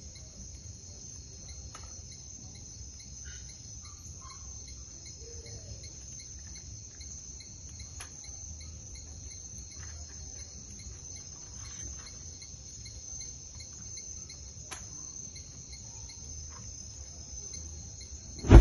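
Crickets chirping in a steady, unbroken high-pitched chorus, with a few faint scattered clicks. A loud sudden knock comes right at the end.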